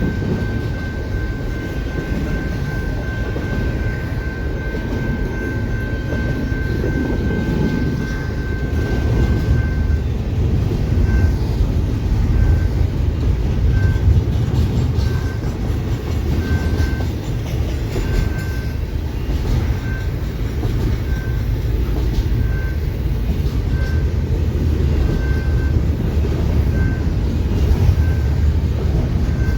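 Train rumbling through a rail crossing, with the General Signals Type 2 crossing bell sounding over it: a steady high tone at first, which about a third of the way through changes to short rings about once a second.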